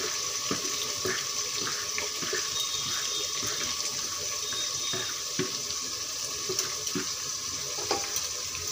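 Sliced spring onions frying in plenty of hot oil: a steady sizzle with scattered small crackles, and a few light knocks of a spatula against the pot.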